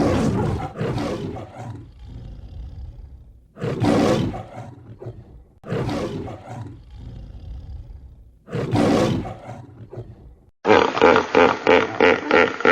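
A large wild animal roaring: four loud roars of about a second each, with lower growling between them. Near the end a different animal call takes over, a fast run of pitched pulses.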